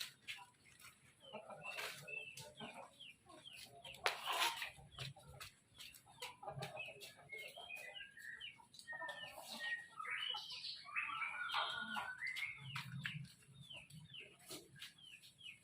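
Chickens clucking and calling, with a steady run of short high falling chirps, several a second, and harsher calls about two-thirds of the way through. A sharp knock sounds about four seconds in.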